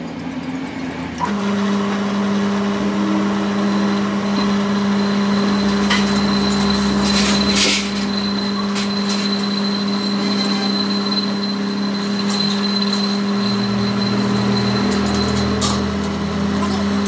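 A workshop machine starts about a second in and runs with a steady hum and a thin high whine, with scattered clicks and a short hissing burst near the middle.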